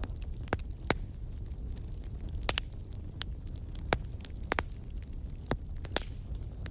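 Wood fire burning in a fireplace: a steady low rumble of flames with irregular sharp crackles and pops, about a dozen scattered through.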